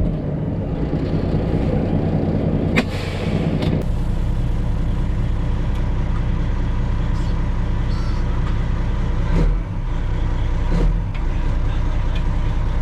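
Semi truck's diesel engine running steadily, with a sharp click about three seconds in followed by about a second of hiss.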